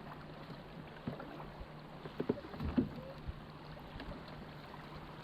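Canoe on a river: paddle strokes and water sloshing around the hull, with a cluster of short splashes and light knocks about two to three seconds in.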